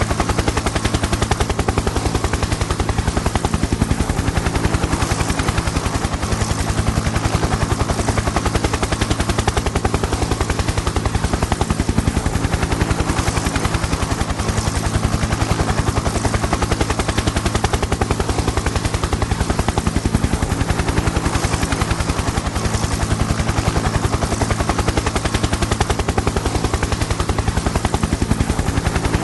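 Helicopter in flight: the main rotor chops in a rapid, even beat over a steady engine hum and a high rushing hiss, unchanging throughout.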